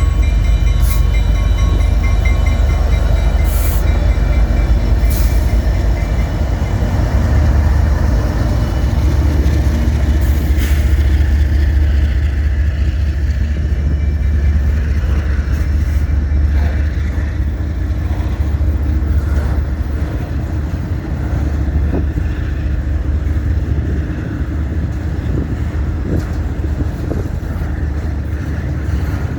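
A diesel-hauled freight train passing with a heavy, steady low rumble. In the first few seconds there are steady high whining tones and a few sharp metallic clanks. From about halfway the rumble eases a little as the freight cars roll by.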